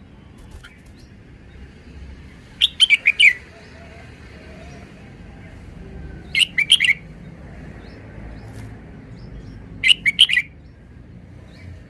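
Red-whiskered bulbul singing three short phrases, each a quick run of a few bright notes, spaced about three and a half seconds apart.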